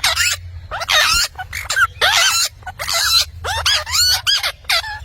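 Pet parrot chattering and squawking in a quick run of short calls, several a second, each sharply bending in pitch.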